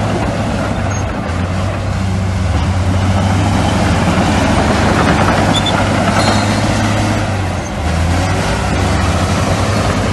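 Heavy diesel engines of earthmoving machinery running steadily, a low hum with brief dips in level about a second in and near the end.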